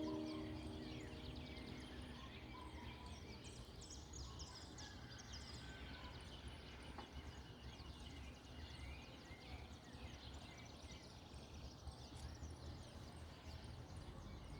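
Many small birds chirping and calling faintly in a dawn chorus, short high notes scattered throughout, over a steady low rumble. A final piano chord dies away in the first couple of seconds.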